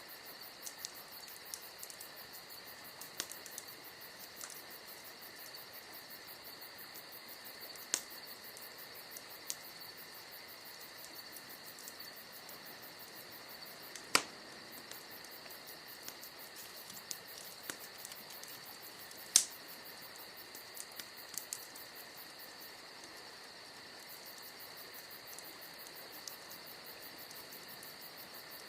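Wood fire crackling: scattered sharp pops and snaps at irregular intervals, two of them much louder about a third and two thirds of the way through. Beneath them runs a constant soft hiss and a steady high-pitched drone.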